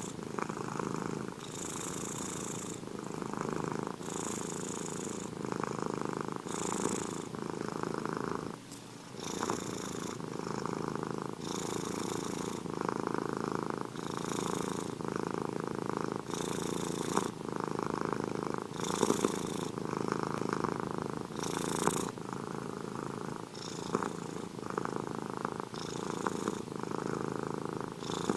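Domestic cat purring steadily and close up, the purr swelling and changing with each in- and out-breath about every two to three seconds.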